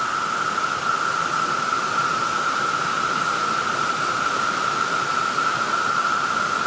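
Chorus of 17-year periodical cicadas: a steady drone held at one high pitch over a hiss, unbroken throughout.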